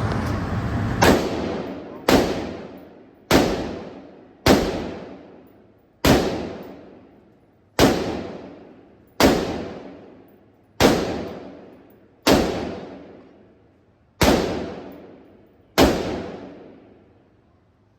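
AR-15 rifle in 5.56 fired semi-automatically at an indoor range: eleven sharp shots about one to two seconds apart, each followed by a long echoing decay in the enclosed room.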